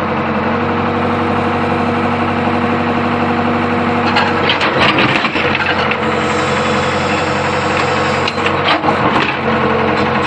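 Old Hitachi UH025 mini excavator's diesel engine running steadily. From about four seconds in the sound turns rougher, with clanking and knocks mixed in.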